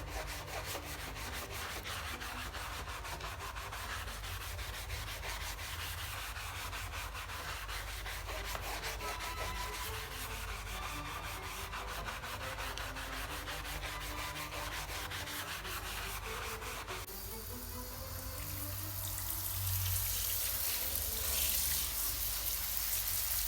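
Rapid, rhythmic scrubbing of a soapy cloth mouse pad. About 17 seconds in, the strokes give way to a steady hiss.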